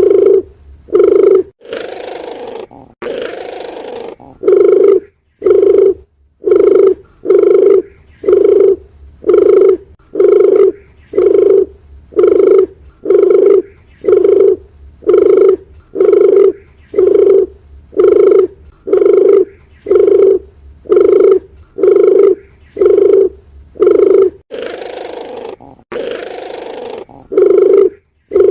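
Dove cooing, a short low coo repeated about once a second in a steady series, as used in a lure recording. Twice the series gives way to about two seconds of noisy hiss.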